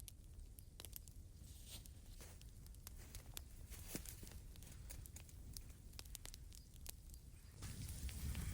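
Faint, irregular light clicks and crackles over a steady low rumble, with a louder rustling noise building near the end.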